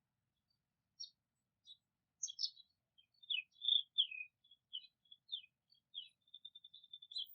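Songbird singing: a string of high, short chirps and down-slurred whistles starting about a second in, quickening near the end into a fast trill.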